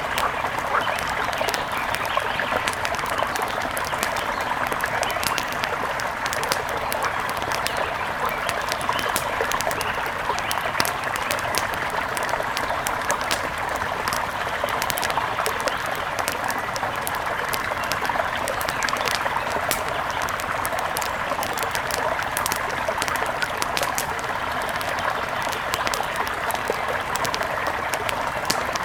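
Steady rush of a mountain river, with many small sharp ticks scattered throughout.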